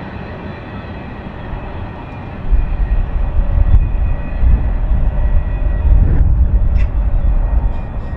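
BNSF freight train passing close by: steady rolling noise of wheels on rail with faint steady ringing tones, and a heavier low rumble coming in about two and a half seconds in.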